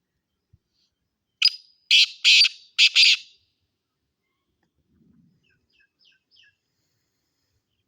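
Black francolin (black partridge) calling: a loud, harsh phrase of about five grating notes close together, followed a couple of seconds later by a few faint, short notes.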